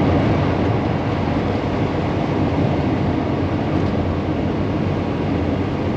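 Volkswagen Vanagon driving at road speed: steady engine and road noise heard inside the van.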